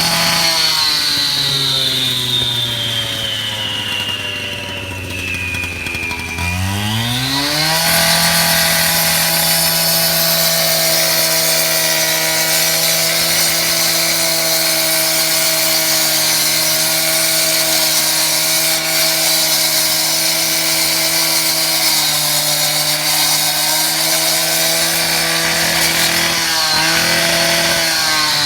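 Wet saw running. Its motor pitch sinks steadily for the first six seconds or so as the blade is loaded in the cut. It then quickly climbs back up and runs steady at full speed, with a brief dip near the end.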